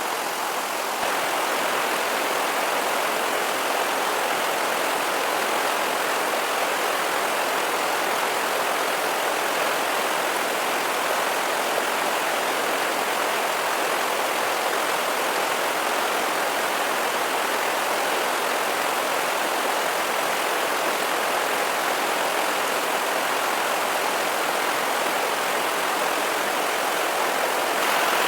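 Steady, even rushing noise with no breaks, pitch or rhythm in it, slightly louder after about a second.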